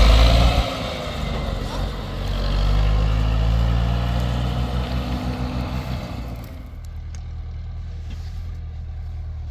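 A motor vehicle's engine running, with a steady low hum. It is louder and noisier for the first six seconds, then settles quieter and smoother.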